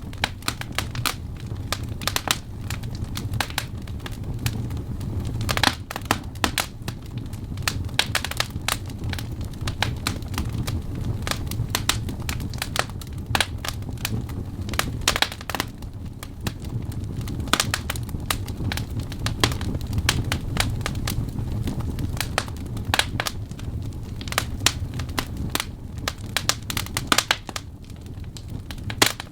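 Burning wood logs crackling and popping in an irregular stream of sharp snaps, over a low steady rumble of the flames.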